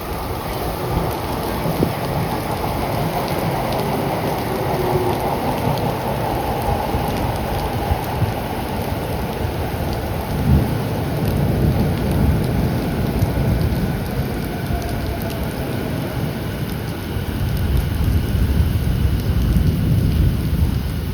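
Heavy rain falling with thunder rumbling low and long, swelling twice. Underneath, early on, a train's faint motor whine drifts down in pitch as it slows into the station.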